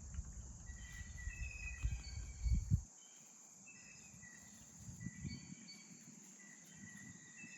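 Steady high-pitched chirring of crickets, with birds calling over it in many short whistled notes. A low rumble runs through the first three seconds, then stops.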